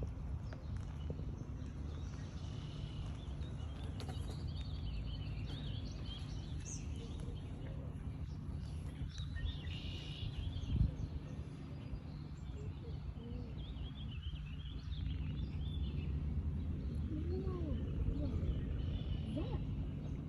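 Outdoor ambience of small birds chirping over a steady low rumble, with a single knock about halfway through.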